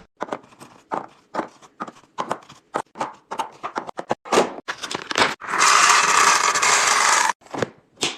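Household items and containers being handled and set down: a run of sharp knocks and clicks, then a loud, steady rushing noise for about two seconds that fits dry goods being poured or packaging crinkling, then one more knock.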